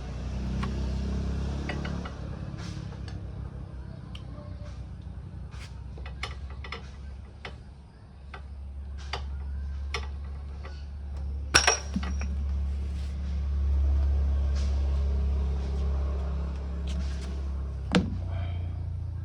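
Hero Glamour's single-cylinder motorcycle engine starting and running, its revs rising about eight seconds in and held higher, with scattered metallic clicks and clinks over it. The mechanic puts the engine noise down to the timing chain.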